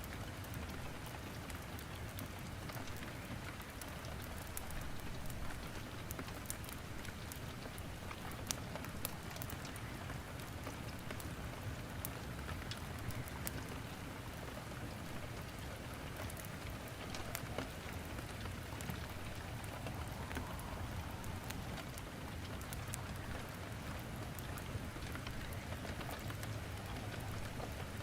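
Steady rain falling, with scattered sharp pops and snaps of wood crackling in a fireplace fire.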